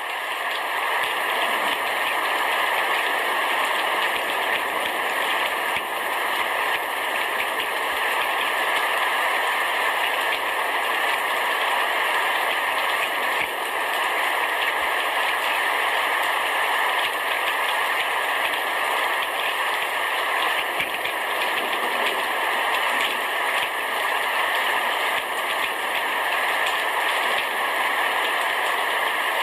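Heavy rain shower falling steadily on a roof, a dense, even patter of drops without a break.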